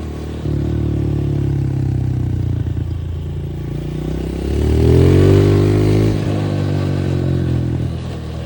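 Dirt bike engine running, revving up about halfway through, loudest for a second or so, then dropping back to a steady run.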